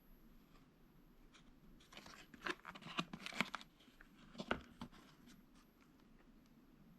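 Packaging being handled and torn open: a run of crinkling, tearing and clicking sounds from about two to five seconds in, with quiet handling noise around it.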